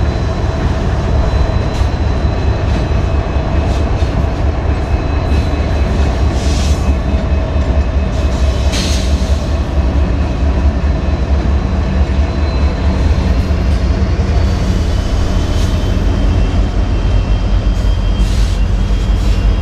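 Train running on the rails: a steady heavy rumble with faint high tones over it and a couple of brief sharp noises about 7 and 9 seconds in.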